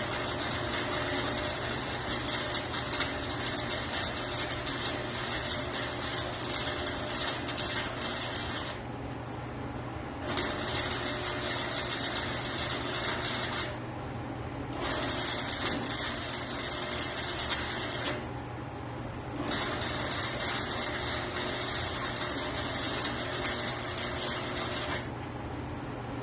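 Welding in four long runs of steady crackling and sizzling, broken by short pauses, over a steady low hum from the machine.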